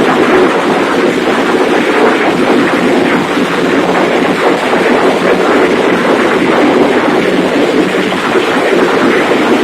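Large diesel engine converted to spark ignition and running on wood gas, running loud and steady.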